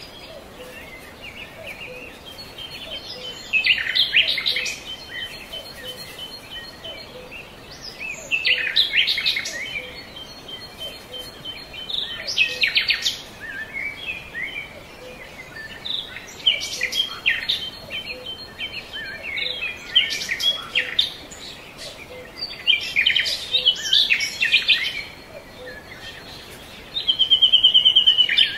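Birds chirping and singing, a burst of song about every four seconds, with a fast trill near the end.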